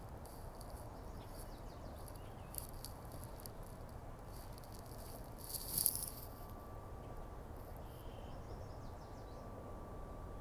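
Scattered dry rattling clicks, loudest in a short cluster a little past halfway, over a steady low rumble.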